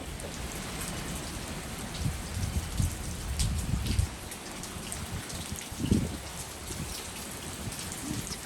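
Steady rain falling in a thunderstorm, with gusts of wind rumbling on the microphone a couple of times.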